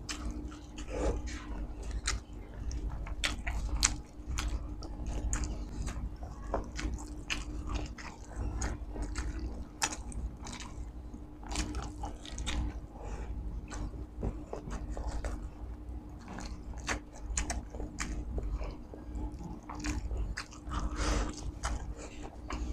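Close-miked eating sounds of a person chewing chicken isaw (chicken intestines) and rice: wet chewing with many short lip smacks and clicks.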